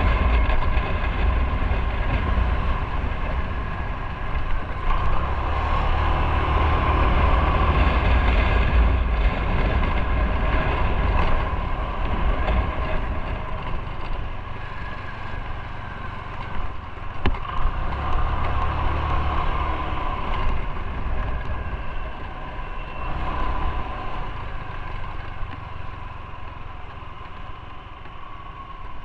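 Motorcycle engine running while riding, its note swelling and easing as the throttle changes, with wind rumbling over the microphone.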